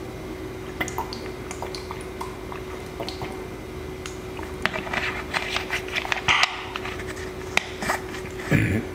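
Close-miked wet chewing and mouth sounds of someone eating, with scattered clicks and smacks that grow busier about halfway through.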